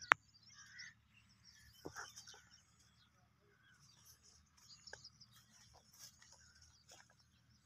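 Faint birds chirping, with a sharp click just after the start and a few softer taps later on.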